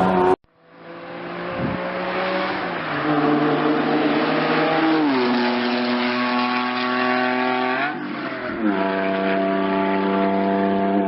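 Lamborghini Diablo's V12 engine running hard, cutting in abruptly just after the start. Its pitch holds in steady stretches and steps down sharply about three and five seconds in, then dips and climbs again near eight seconds.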